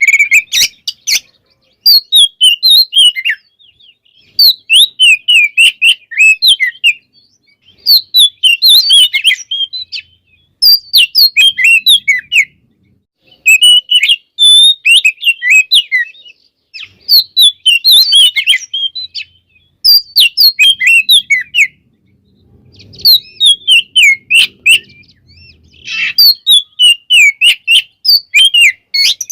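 Oriental magpie-robin (kacer) singing: bursts of rapid, varied high whistled and chattering notes, each phrase two to three seconds long with short pauses between, repeated about nine times.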